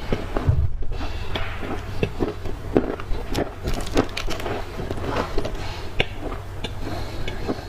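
Close-up crunching and chewing of dry black clay: irregular sharp crunches and crackles, several a second, over a faint low hum.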